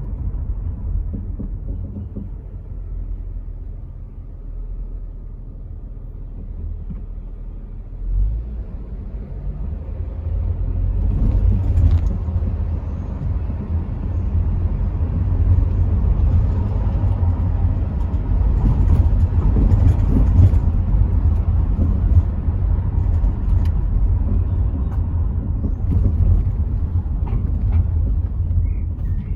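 Rover 75 V6 estate on the move: a steady low rumble of engine and road noise, which grows louder about eight seconds in and stays louder.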